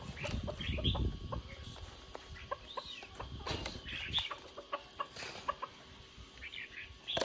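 Birds giving short, repeated chirps and clucks, with low rustling and knocking noise that is heaviest in the first second or so.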